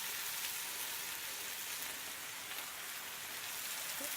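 Chicken and spinach curry sizzling steadily in a frying pan, an even hiss with faint crackles.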